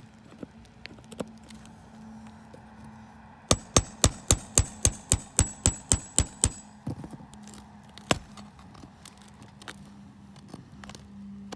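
Roofing hammer driving nails, about a dozen quick sharp blows at roughly four a second, then a single further blow a moment later, over a faint steady hum.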